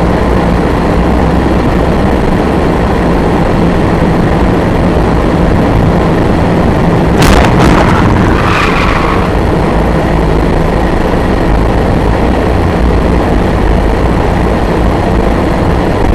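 Loud, steady road and wind noise of a car driving, picked up by a dash cam. About seven seconds in comes a brief cluster of sharp knocks with a short ringing after them.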